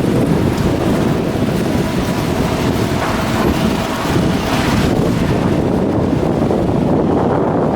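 Wind buffeting the microphone: a loud, steady, gusty rumble.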